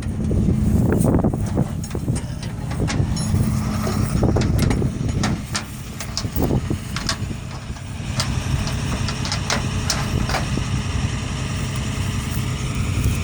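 Flatbed tow truck's engine idling steadily, with repeated sharp metallic clanks and knocks; the running sound becomes fuller and steadier about two-thirds of the way through.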